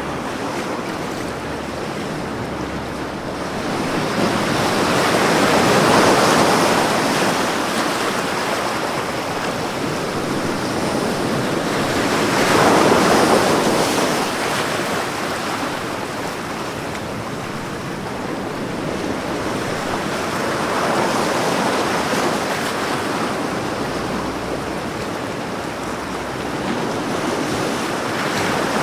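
Ocean waves breaking on a shore, a steady wash of surf that swells roughly every seven seconds as each wave comes in.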